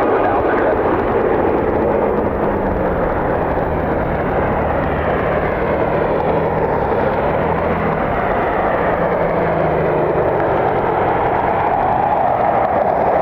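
Jet engine noise from a UPS cargo jet landing: a steady, loud rush with a faint low hum between about two and ten seconds in.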